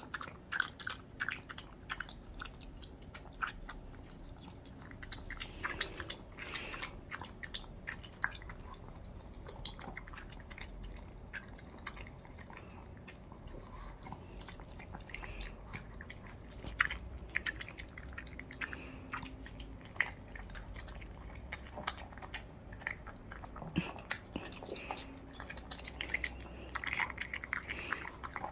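A Pomeranian eating dog rice-cake soup, with irregular, wet chewing and clicking of its mouth.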